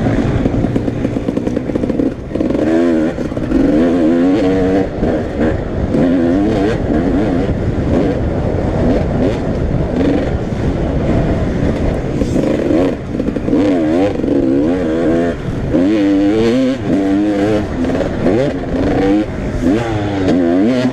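Several motocross bikes racing, their engines repeatedly revving up and dropping back in pitch as riders open and close the throttle and shift gears, several bikes overlapping.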